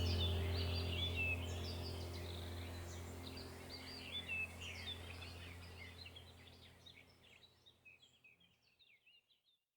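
Birds chirping over a low steady drone, both gradually fading out to silence about seven seconds in.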